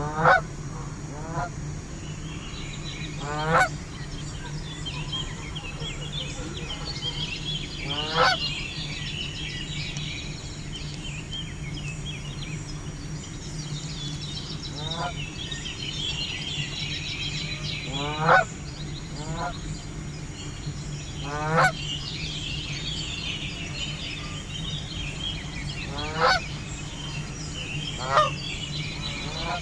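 Canada geese honking: about ten separate short honks, each rising sharply in pitch, scattered at irregular intervals. A steady low hum and fainter high chirping run underneath.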